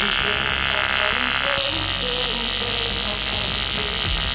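TIG welding arc buzzing steadily while welding a crack in an aluminium alloy wheel. There is a slight change in tone about one and a half seconds in.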